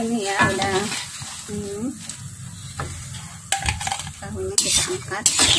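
Tofu cubes sizzling in hot oil in a wok, being refried to dry them out, while a metal spatula stirs and scrapes them, with several sharp clinks against the pan in the second half.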